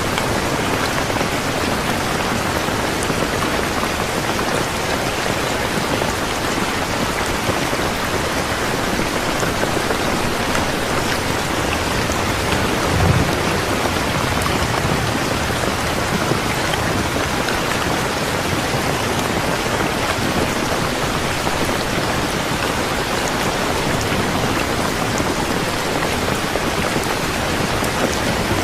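Steady, heavy rain falling, an even hiss of drops, with one brief low thump about thirteen seconds in.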